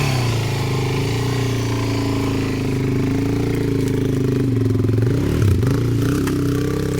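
Dual-sport motorcycle engine running close by, its pitch rising and falling with the throttle as it is ridden off-road. A couple of sharp knocks come about five and a half seconds in.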